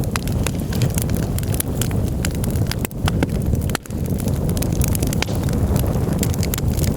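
Campfire crackling, with frequent sharp, irregular pops and snaps over a steady low rumble of flames. The rumble dips out briefly twice near the middle.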